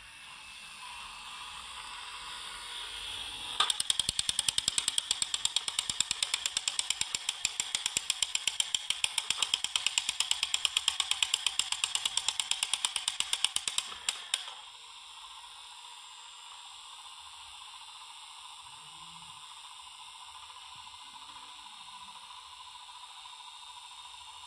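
Battery-powered toy train engines running: a motor hiss builds up, then a fast, even clicking of gears or wheels, about seven clicks a second, for some ten seconds, stopping sharply and leaving a quieter steady hiss.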